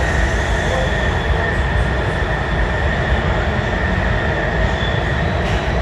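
Subway train running through a tunnel, heard from inside the passenger car: a loud, steady low rumble with a faint steady high-pitched whine over it.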